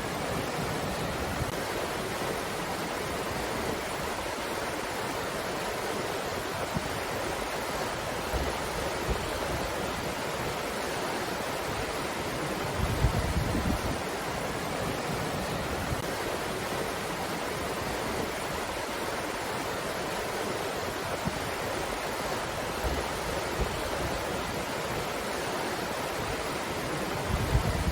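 Wind blowing steadily, an even rushing noise, with low buffeting from gusts on the microphone about halfway through and again near the end.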